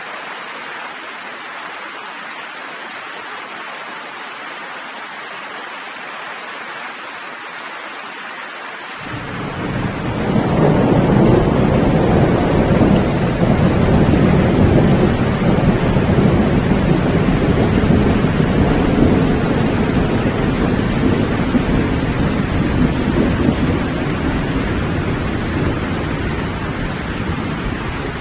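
Steady rain falling. About nine seconds in, a long rolling rumble of thunder comes in, loudest a few seconds later, then slowly dying away under the rain.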